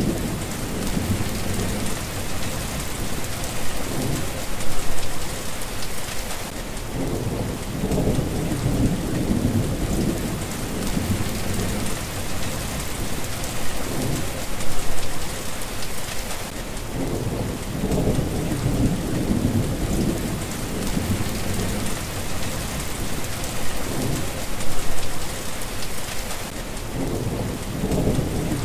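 Steady rain falling, with low rumbles of thunder swelling and fading again and again underneath it.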